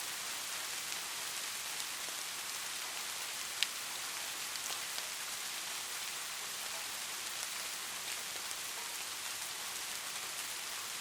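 Light rain falling steadily: an even hiss with scattered drop ticks, and one sharper drip about three and a half seconds in.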